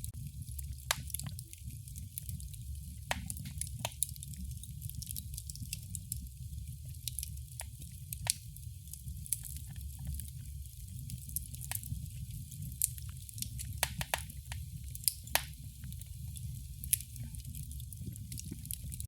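Wood fire in a fireplace crackling: irregular sharp snaps and pops, a few louder than the rest, over a steady low rush of the burning fire.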